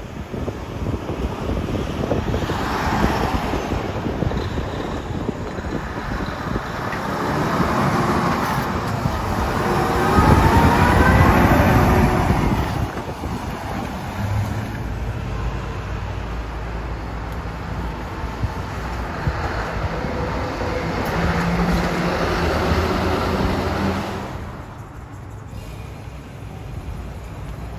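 Heavy trucks and road traffic passing by, the loudest pass about ten seconds in with its engine note sweeping in pitch as it goes by. After it a truck's diesel engine runs at low revs with a few changes in pitch, then fades near the end.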